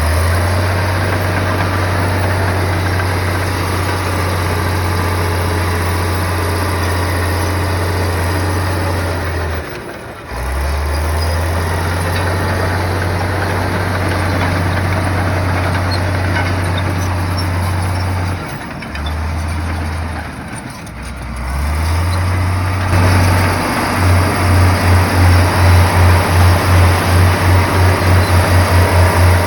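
Heavy bulldozer's diesel engine running under load, a deep steady drone with mechanical clatter above it that drops out briefly a few times. Near the end the engine note turns into a fast throb of about four to five beats a second that quickens.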